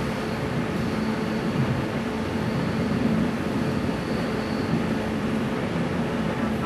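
Steady running noise heard from inside a moving NJ Transit commuter train coach: the rumble of the wheels on the track, with a steady low hum under it.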